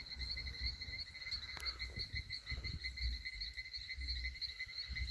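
A steady, rapidly pulsing high chirring of an insect chorus, with intermittent low rumbling underneath.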